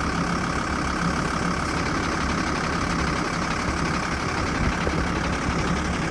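VW T4's 2.5 TDI five-cylinder turbodiesel running steadily at idle, with extraneous noises from the gearbox area.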